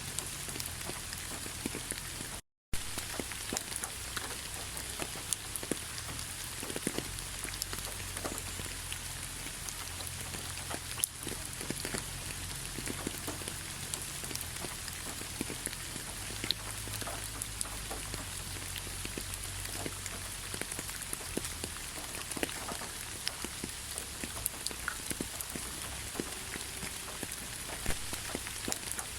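Steady rainfall, with many separate raindrops ticking against a constant hiss. The sound cuts out completely for a moment about two and a half seconds in, then carries on unchanged.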